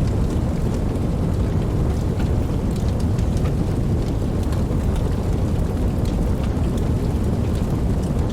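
Steady rain: a dense, even wash of noise with a heavy low rumble beneath it, and scattered sharp ticks of individual drops striking close by.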